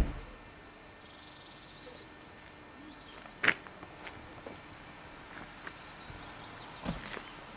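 Birds chirping faintly over a steady outdoor hiss, with a sharp click at the very start and a few scattered clicks and knocks, the loudest about halfway through.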